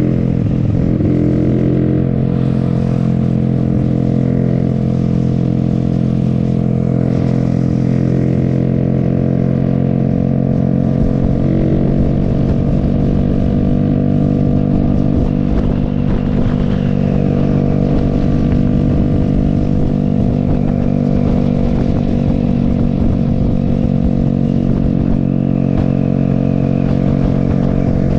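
Single motorcycle engine running at steady revs while cruising, heard from the rider's helmet, with wind rumble on the microphone.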